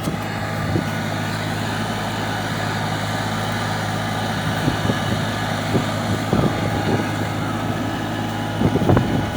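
Massey Ferguson 6028 tractor's diesel engine running at a steady speed, with a few knocks near the end.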